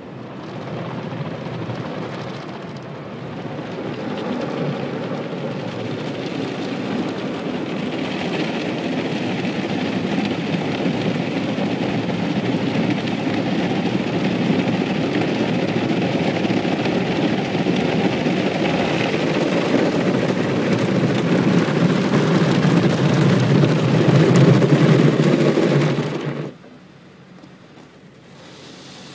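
Automatic car wash spraying water and scrubbing the car, a loud rushing, drumming noise heard from inside the car. It builds over the first few seconds, grows louder, and cuts off suddenly near the end.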